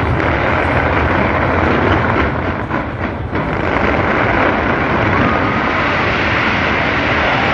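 A dense fireworks barrage: many shells bursting at once, making a continuous booming rumble, with sharp crackling over the first three seconds or so.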